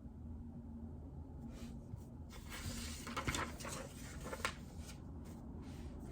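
A short run of keystrokes on a JJK84 mechanical keyboard fitted with Outemu Silent Peach linear switches, starting about a second and a half in, thickest in the middle and trailing off near the end, over a low steady hum.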